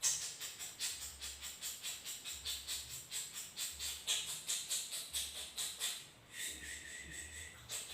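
A bird's rapid, dry ticking call, about eight ticks a second. About six seconds in it changes to a high, steadier pitched trill.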